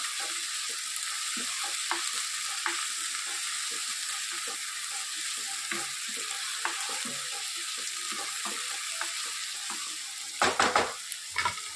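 Chopped vegetables frying in oil in a nonstick kadai, sizzling steadily with small pops and crackles while a spatula stirs them. A few louder knocks near the end.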